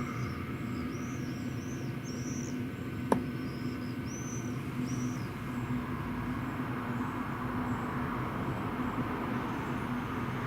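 Diesel air heater running steadily, its exhaust going through a chain of silencers, with a scooter silencer fitted on the end. Its hum holds steady throughout, one sharp click comes about three seconds in, and birds chirp faintly in the background during the first half.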